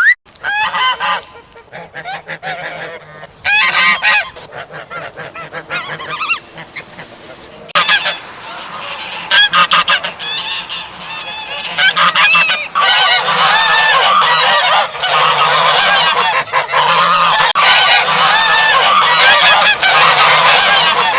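Geese honking: separate loud honks in the first half, then from about twelve seconds in a dense, continuous chorus of many geese honking over one another.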